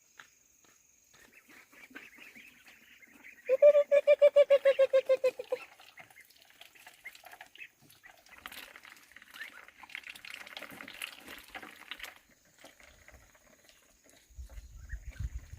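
A duck calling: a fast run of about twenty short, pitched quacks lasting about two seconds, among fainter scuffling sounds.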